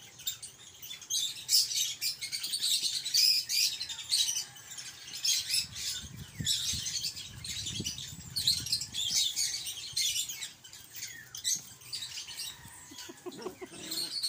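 Small birds chirping and twittering continuously in high, quick notes, with a faint low rumble about six to nine seconds in.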